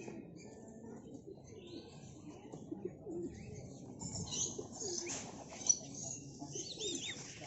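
Many birds calling in an aviary: low cooing throughout, with a dense mix of high chirps and whistles coming in about halfway through. A single sharp click sounds about three-quarters of the way through.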